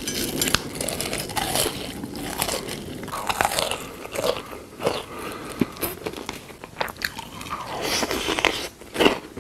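Close-miked eating sounds of chocolate treats: irregular biting, crunching and chewing.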